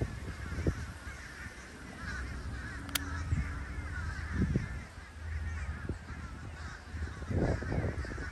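A huge flock of birds calling overhead: a dense, continuous chatter of many overlapping calls, over a low rumble. A single sharp click about three seconds in.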